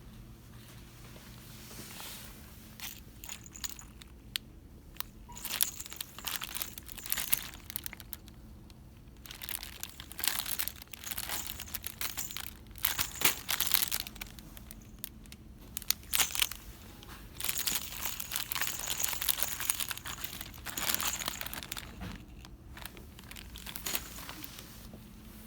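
Packaging crinkling as it is handled, in irregular bursts over about twenty seconds.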